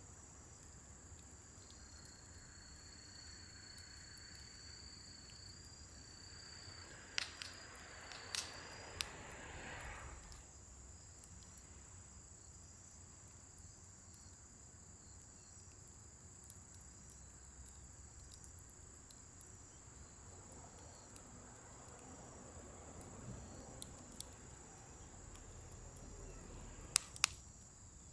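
Wood fire in a fire pit burning down, with scattered sharp crackling pops (a cluster about a third of the way in and a few more near the end) and a thin high whistle for a few seconds near the start.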